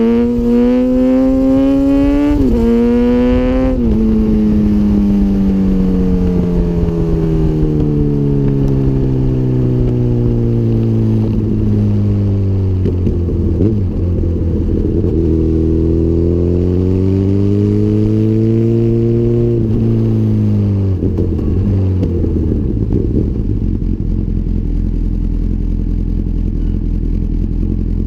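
Honda CBR1000RR inline-four sportbike engine with a Micron full exhaust system, accelerating hard with two quick upshifts in the first few seconds. Its pitch then falls slowly as it winds down for several seconds, climbs again, drops sharply about twenty seconds in, and gives way to a low, steady rumble near the end.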